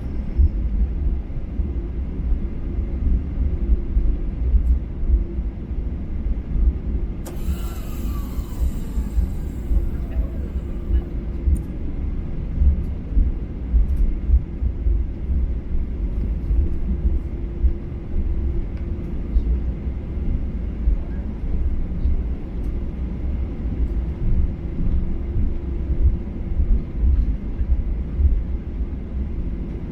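Cabin noise inside a Boeing 737-800 with its CFM56 engines running: a steady low rumble with a steady hum over it. About seven seconds in, a brief hiss comes in with a tone that falls in pitch.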